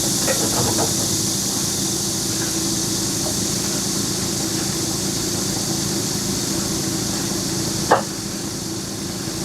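Heavy equipment engine running steadily under a high hiss, with a few light knocks in the first second and one sharp knock about eight seconds in.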